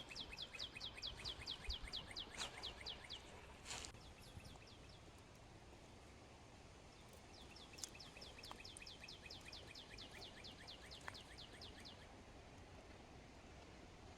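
A songbird singing two long trills of rapid, evenly repeated short chirps, about five or six a second, one at the start and another about eight seconds in, over faint outdoor background noise.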